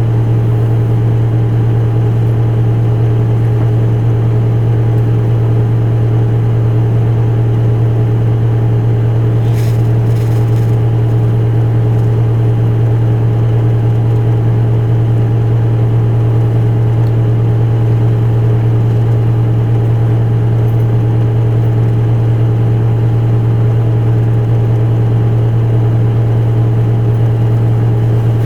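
Diesel engine of an Isuzu Erga Mio city bus, heard inside the cabin, running at a steady unchanging pitch with a constant low hum, as at idle.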